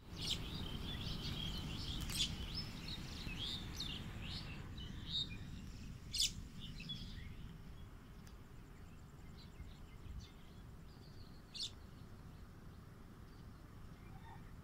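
Birds chirping in quick high calls, many in the first seven seconds and only a few after, over a steady low rumble, with a few sharp ticks.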